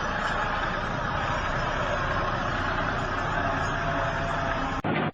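Heavy vehicle engine running steadily. It cuts off abruptly near the end.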